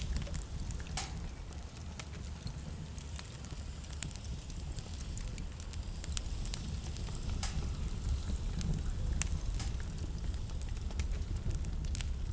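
Wood fire burning in a fireplace: a steady low rumble of the flames with irregular sharp crackles and occasional louder pops.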